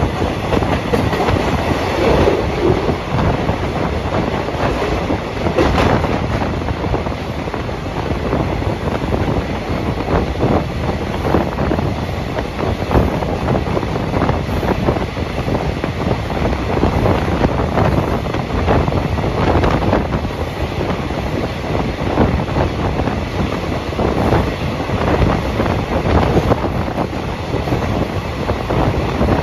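Passenger express train running along the track, heard from aboard a coach: a steady running noise with frequent short clicks of the wheels over rail joints.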